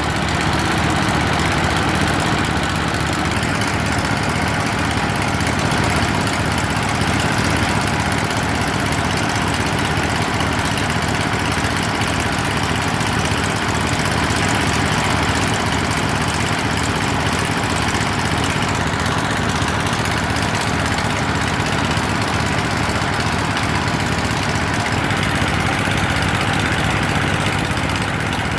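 Homemade well-drilling rig driven by an AC dynamo motor, running steadily with an even low pulsing.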